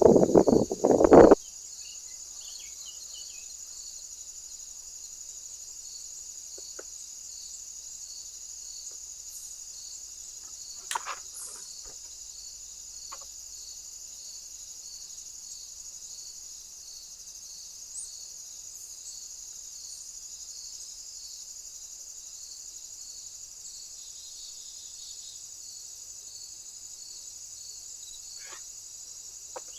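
Insects chirping steadily outdoors, a continuous high trill with evenly repeating chirps, with a few faint clicks and taps. A loud noisy rush opens the sound and cuts off suddenly about a second in.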